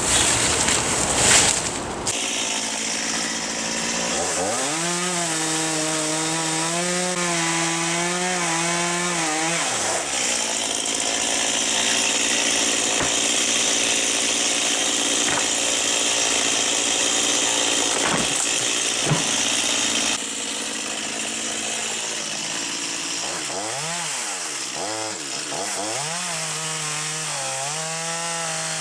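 Gasoline chainsaw cutting into a catalpa tree limb, with a loud burst about a second in. The engine then climbs to full throttle about four seconds in, its pitch wavering under load, and eases back about ten seconds in. It revs up and down again near the end.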